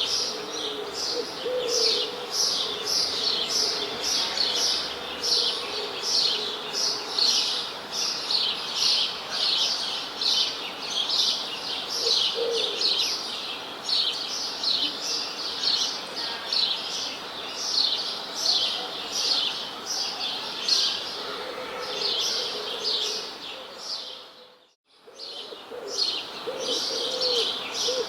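Many small birds chirping in a dense, continuous chorus of rapid, repeated high chirps. About three-quarters of the way through, the whole sound fades out briefly and comes back.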